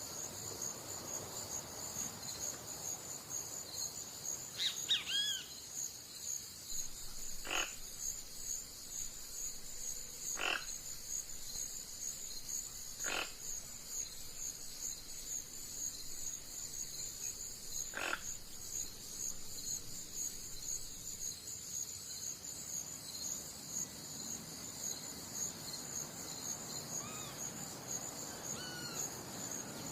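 Nature ambience: a steady, high insect chorus trilling throughout. Four short, sharp animal calls come a few seconds apart, and a few brief bird chirps sound about five seconds in and again near the end.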